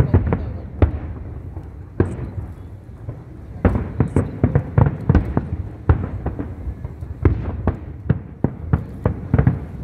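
Aerial firework shells bursting in an irregular barrage of sharp bangs over a low rumble. The bangs thin out briefly about two seconds in, then come in quick clusters.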